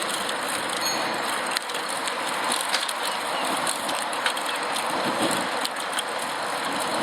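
Steady hissing rush of a bicycle in motion picked up by the rider's earpiece microphone, with a few faint clicks.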